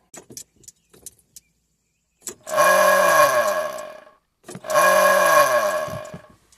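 Truck starter motor cranking in two attempts of about two seconds each, whirring up and then down in pitch without the engine catching: the truck won't start. A few light clicks come first.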